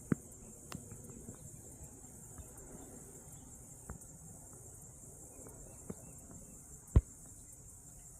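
Steady high-pitched chorus of crickets, with a few scattered sharp knocks, the loudest about seven seconds in.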